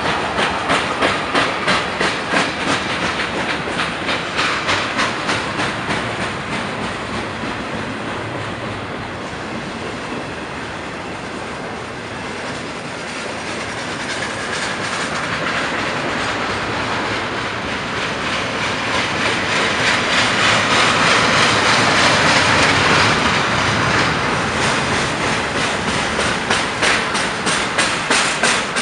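Freight train of tank cars and double-stack container cars rolling past close by. Its steel wheels click in a regular rhythm over the rail joints, strongest near the start and the end, with a steady rumble and hiss of the passing cars in between.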